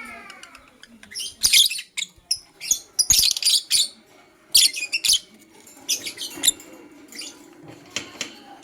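Blue opaline lovebird chirping: sharp, high, squeaky chirps in quick clusters with short pauses between them.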